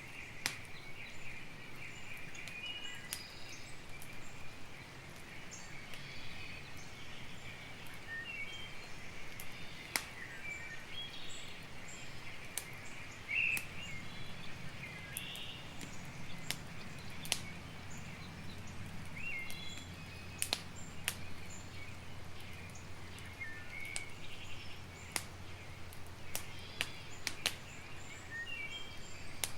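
Campfire crackling, with sharp pops at irregular intervals, while birds chirp in the background.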